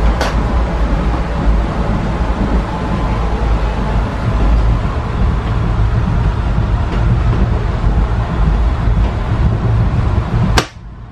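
Steady low rumble of a passenger train coach running, heard from inside the compartment, with a sharp click just as it begins. The noise cuts off suddenly near the end.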